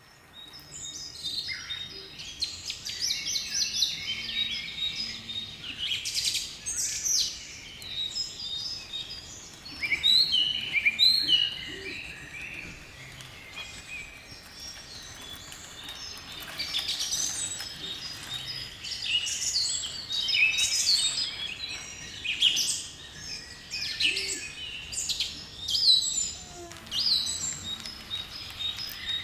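Birdsong: several small birds chirping and singing over one another, with quick rising and falling notes throughout.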